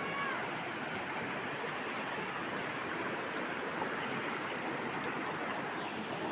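River water running and splashing over stones in a steady rush.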